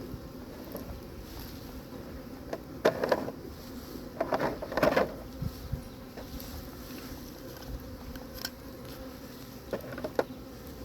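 A honeybee swarm buzzing steadily in a low hum, with a few sharp knocks and rustles about three and five seconds in.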